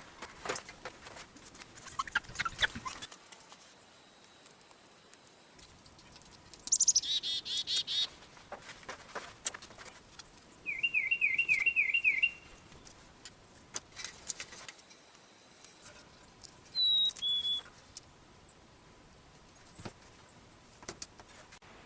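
Bird chirps and whistles: a falling whistle, then a quick trill of about six notes at about four a second, and later a two-note whistle, with scattered light clicks and knocks between them.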